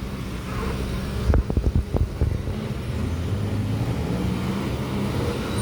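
Heavy truck's diesel engine running as it passes, with a quick series of low thumps a little over a second in, then a steady engine drone that builds toward the end.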